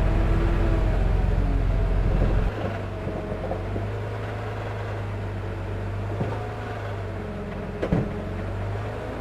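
A construction machine's diesel engine running, loud and deep for the first two and a half seconds, then easing off to a lower, steady run. A single sharp clank comes near the end.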